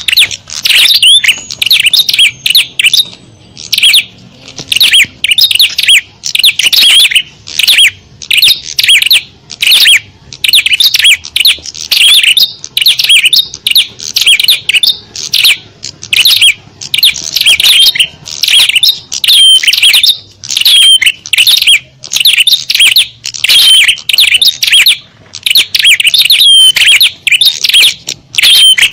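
Small birds chirping and chattering in quick, loud, busy runs of high calls with short breaks between them. This is a bird-lure (pikat) sound meant to draw small birds in.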